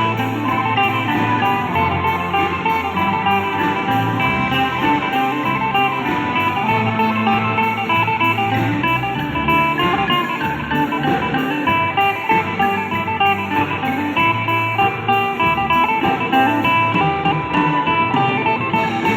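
Student ensemble playing Isan ponglang folk music: a quick plucked-string melody over a bass line and a steady beat.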